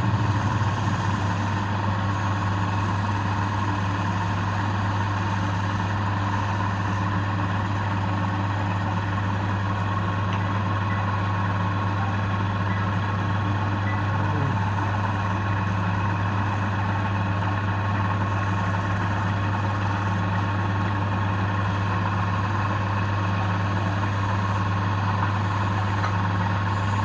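Wood lathe running with a steady hum.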